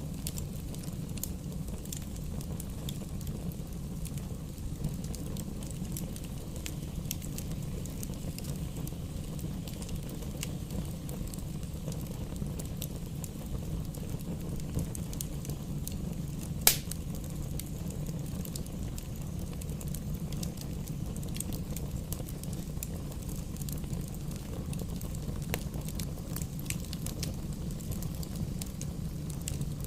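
Campfire burning with a steady low rumble and scattered small crackles and pops, and one loud sharp pop about seventeen seconds in.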